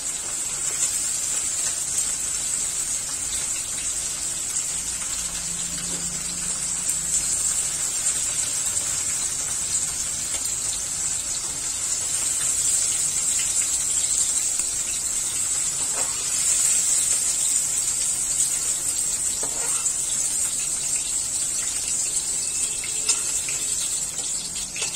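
Okra, onion and tomato pieces sizzling steadily as they deep-fry in hot mustard oil in a kadai, with a couple of faint clicks of the slotted spoon against the pan as the pieces are lifted out.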